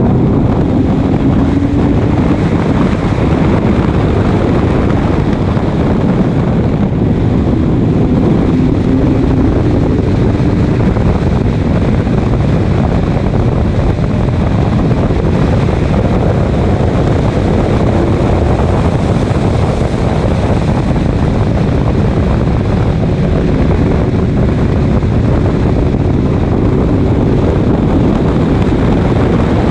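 Race car running at speed on a track: a loud, steady rush of engine and wind noise, with faint engine tones rising and falling.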